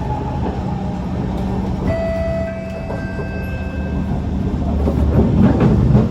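Kawasaki C151 metro train running, heard from inside the car: a steady low rumble, with a thin electrical whine setting in about two seconds in, and the rumble growing louder and rougher near the end.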